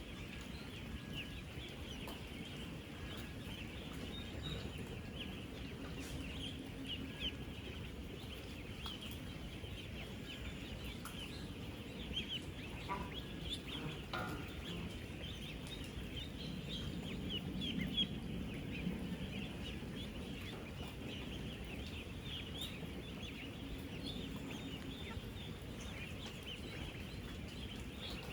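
A large flock of ten-day-old ducklings peeping continuously, with many short high peeps overlapping, over a low steady rumble that swells briefly about two-thirds of the way through.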